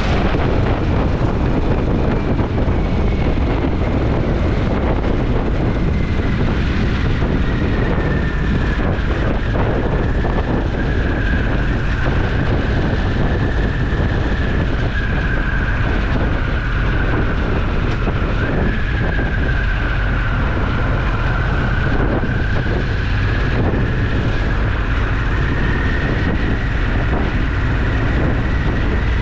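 Motorcycle engine running at a steady cruise with heavy wind rush on the microphone. A faint high whine drifts slowly lower through the middle, then rises a little again.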